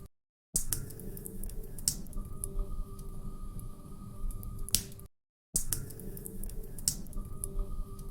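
Wood fire crackling in a fireplace: irregular sharp pops and snaps over a low rumble of burning logs. The sound cuts out to silence twice for about half a second, once just after the start and once about five seconds in.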